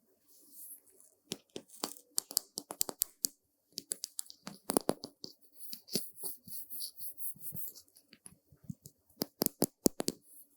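Brushes stroking and flicking over a surface close to the microphone: irregular sharp clicks and crackles mixed with soft, high brushing swishes.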